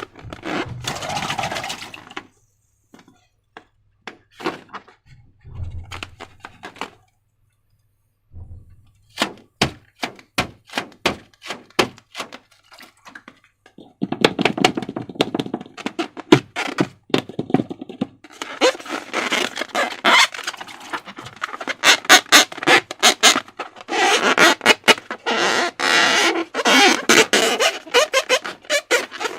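Slime being worked by hand, giving sticky clicks, crackles and squelches. These are sparse with short pauses at first, then dense and nearly continuous from about halfway through.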